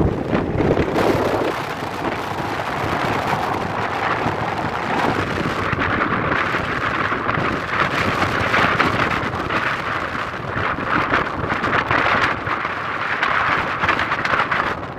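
Jet engines of an Airbus A350, Rolls-Royce Trent XWBs, on takeoff, mixed with heavy wind buffeting the microphone in gusts.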